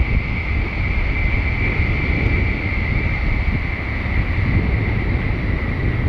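A train running past at speed: a steady rumble of wheels on rail with a hiss, mixed with wind on the microphone.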